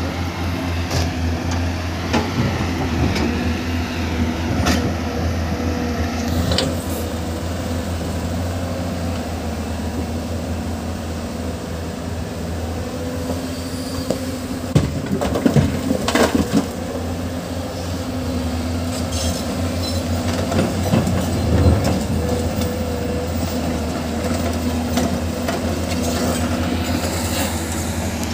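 Heavy diesel construction machinery running steadily, with scattered knocks and clanks, a cluster of them about halfway through.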